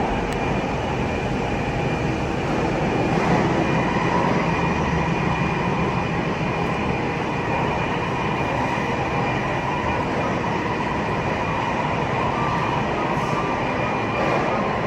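Taipei Metro Bannan line train running through the tunnel between stations, heard from inside the car: a steady rumble of wheels on rail with a faint high whine from the traction motors.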